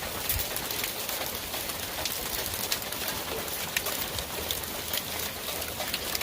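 Heavy rain mixed with hail pouring down in a steady hiss, with frequent sharp ticks of hailstones striking hard surfaces.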